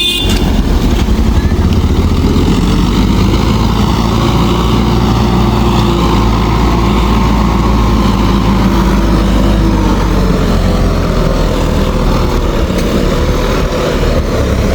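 Mahindra 585 DI tractor's diesel engine running steadily.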